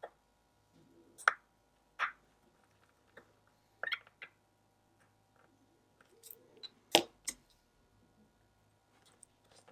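Small sharp clicks and taps of watchmaker's tools (tweezers, screwdriver) on the parts of a watch movement being reassembled, about half a dozen at irregular intervals, the loudest about a second in and near seven seconds.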